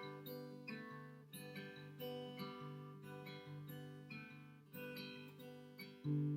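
Acoustic guitar playing a song's closing instrumental: picked notes and chords, then one loud final strum near the end that rings out.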